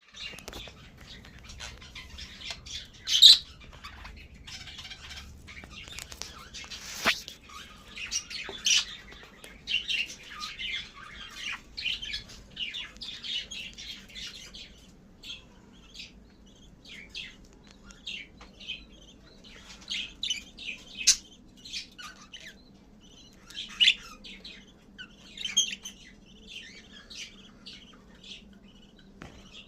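Budgerigars chirping and chattering: a steady stream of short, high calls with a few louder squawks scattered through.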